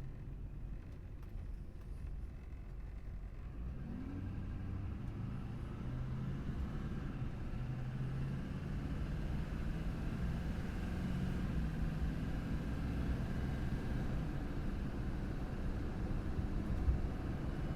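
Duramax diesel engine of a GMC Sierra 2500 HD pickup under way, its note rising and stepping as the truck accelerates and shifts, over a steady low rumble of road noise.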